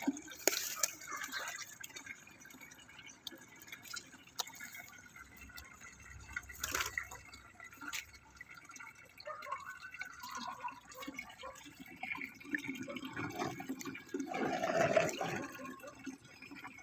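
Water dripping and splashing, with scattered small clicks and a louder stretch of splashing near the end.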